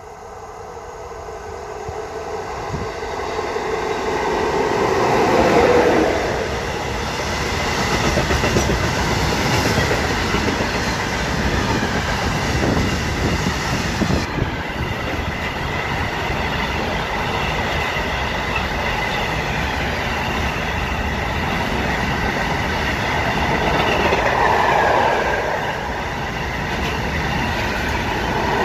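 A train approaching and passing close by. The sound builds over the first five or six seconds, with a tone dropping in pitch as the front passes, then stays loud and steady as the cars roll by.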